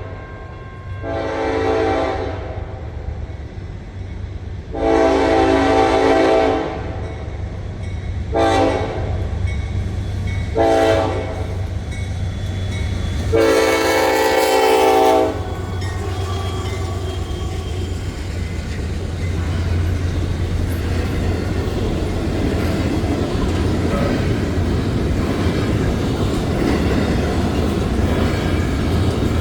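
Locomotive horn of a GE AC44C6M sounding for a grade crossing in five blasts, long, long, short, short, then a last long one held about two seconds. The locomotive and its intermodal train then roll over the crossing with a steady, growing rumble and clatter of wheels on rail.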